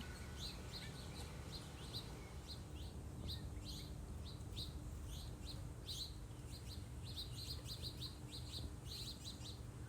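Small songbird chirping: short, repeated chips, about two a second, coming in quicker runs now and then, over a faint low background hum.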